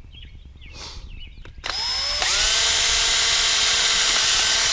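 Power drill spinning up with a rising whine, then running at steady full speed while boring a pilot hole into a 3/4-inch PVC pipe cap, and stopping abruptly.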